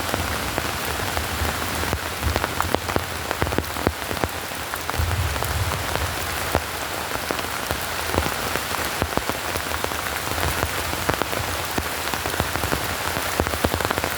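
Rain falling steadily, a constant hiss with many sharp individual drop hits scattered throughout.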